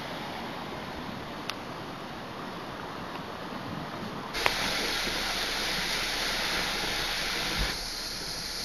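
Steady hiss of a car driving on rain-soaked roads: tyre spray and rain noise. It turns louder and hissier about four seconds in and drops back near the end.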